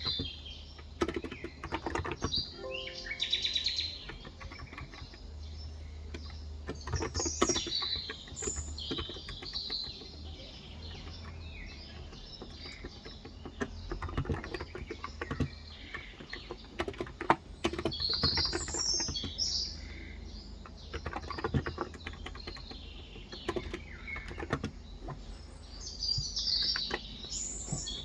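Typing on a Cox Endeavor electrostatic capacitive keyboard with 35 g switches: irregular runs of soft key strokes. Small birds chirp repeatedly in the background.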